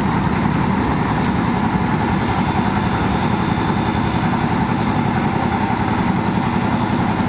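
Engine of concrete-casting machinery running steadily at one speed.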